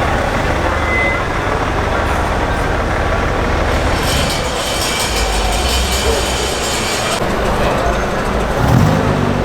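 A motor vehicle running close by: a steady low rumble, with a hissing rush added for a few seconds in the middle.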